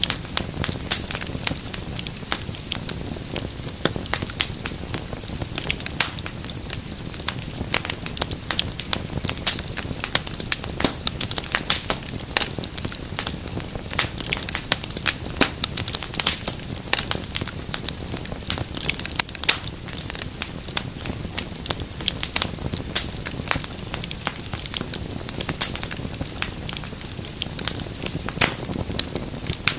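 Wood fire in a fireplace crackling, with dense irregular snaps and pops over a low rumble of flame.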